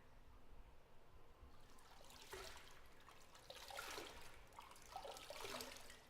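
Faint bathwater sloshing and trickling in a bathtub, starting about a second and a half in as a few irregular swells that fade near the end.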